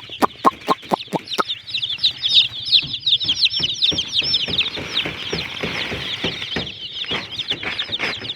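A flock of young chicks peeping continuously, many rapid, high, overlapping chirps. A run of short, sharp lower sounds comes in the first second and again near the end.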